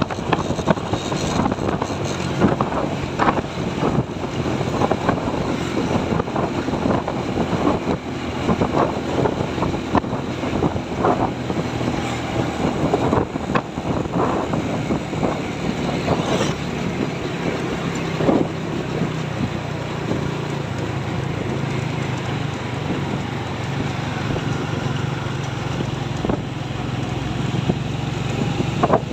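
Truck engine running, with wind noise on the microphone.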